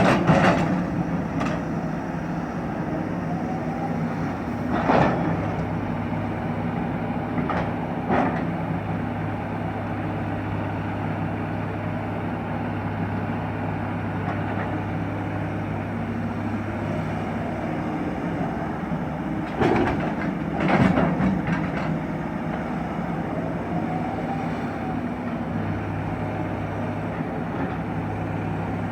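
Excavator's diesel engine running steadily, its hum shifting in strength a few times, with short loud knocks and clanks now and then: a couple near the start, two more a few seconds later, and a cluster about two-thirds of the way through.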